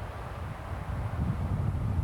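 DR1A diesel multiple unit's diesel engine running as a steady rumble, with wind buffeting the microphone.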